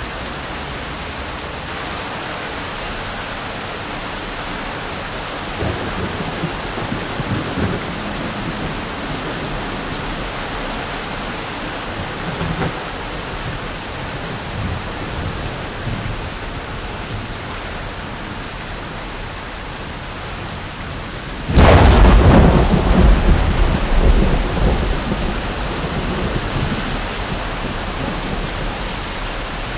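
Steady rain during a thunderstorm, with low rolls of thunder now and then. About two-thirds of the way in, a sudden loud thunderclap cracks and rumbles away over several seconds.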